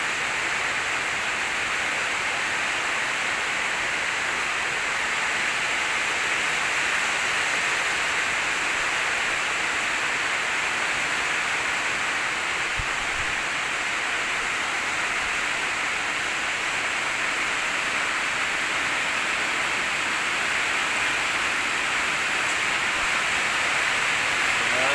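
Steady hiss of rushing water, even throughout, with a brief low thump about 13 seconds in.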